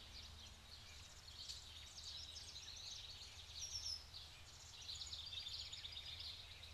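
Faint natural ambience of small birds chirping and trilling, with a few quick high falling whistled notes, over a low steady hum.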